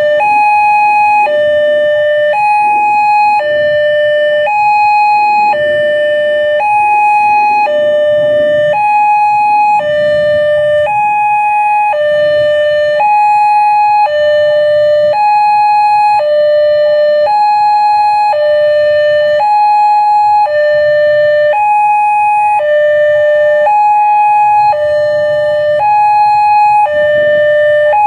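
Railway level-crossing warning alarm, an electronic two-tone signal alternating high and low about once a second, sounding steadily while the crossing barriers are down. Road traffic rumbles underneath.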